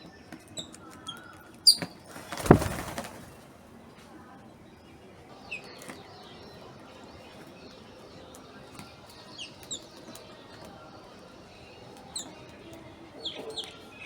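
Small birds chirping in short, high notes, with a brief flurry of wing flaps about two and a half seconds in.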